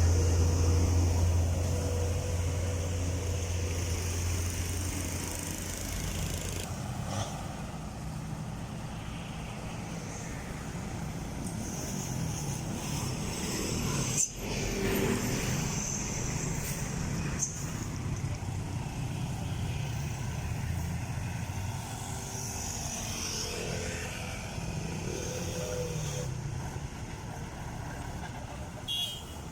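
Heavy trucks running in road traffic. A loud, low engine drone in the first few seconds fades away, leaving steady traffic noise with a sharp knock about 14 seconds in.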